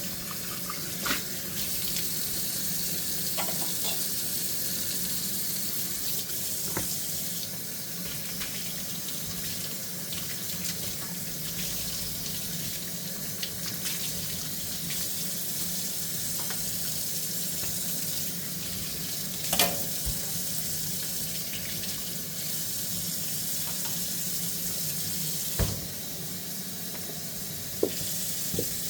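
Kitchen faucet running steadily into a sink while dishes are handwashed, with a few sharp knocks of dishes against the sink, the loudest about twenty seconds in.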